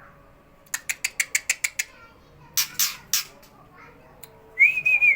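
Juvenile white-rumped shama calling: a rapid string of sharp ticking calls, about eight a second, then three harsh rasping calls, and near the end a clear whistled note that rises, holds and falls.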